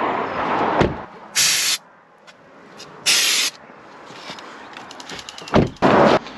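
Aerosol air freshener spraying in two short hisses about a second and a half apart, with a dull knock near the start and a thump and brief rush of noise near the end.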